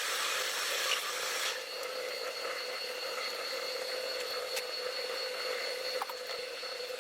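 Metal lathe running with a steady whine while a tool scrapes at the end of a square steel bar held in the chuck; the scraping is heaviest in the first second and a half, then settles into a steadier rubbing noise.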